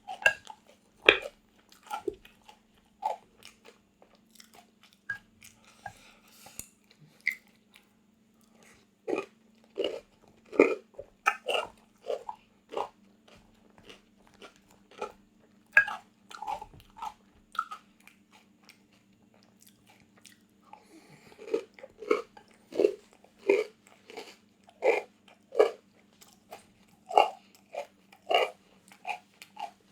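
Close-miked crunching and chewing of a crisp, dry food: runs of sharp bites and chews about one to two a second, broken by quieter pauses of a few seconds.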